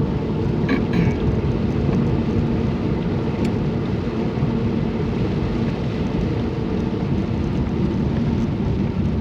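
Steady low rumble inside a moving car in heavy rain: road and engine noise mixed with rain on the car.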